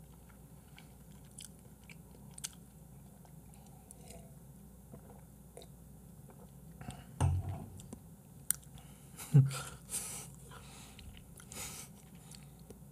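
A person eating close to the microphone: quiet chewing and small wet mouth clicks, with a couple of short louder low sounds about seven and nine seconds in and breathy puffs near the end.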